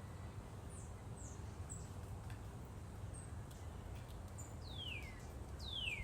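Backyard songbirds calling: a few short, high, thin chips spread through the first half, then two clear whistled notes gliding downward near the end, over a faint low background rumble.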